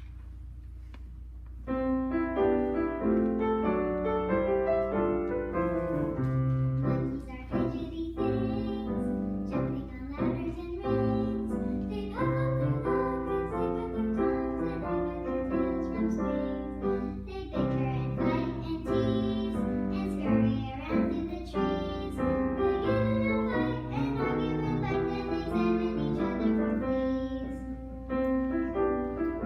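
Children singing a song with piano accompaniment, starting about two seconds in.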